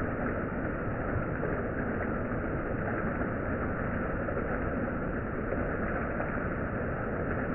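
Heavy monsoon rain falling, a steady even noise that does not change.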